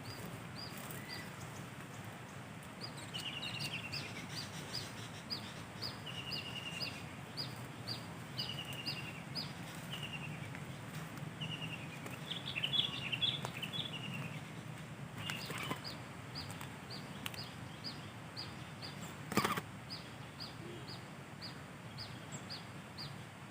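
Small birds calling: a short high note repeated about twice a second, with short chattering trills every couple of seconds and a busier flurry of calls about halfway through. A single sharp click sounds about three-quarters of the way in.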